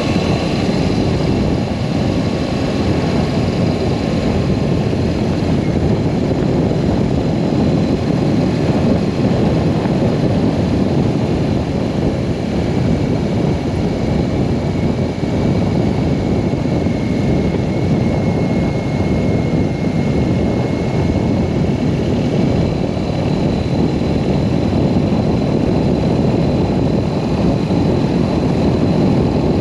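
BMW R1200S motorcycle riding at a steady speed, with wind rushing over the microphone over the engine's drone.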